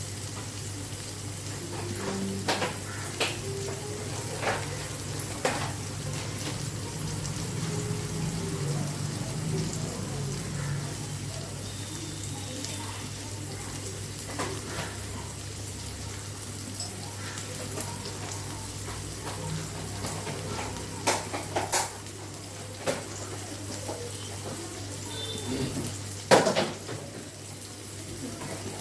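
Sliced shallots frying in oil in a kadai, a steady sizzle, with a metal spatula now and then scraping and knocking against the pan; a few sharper knocks come near the end.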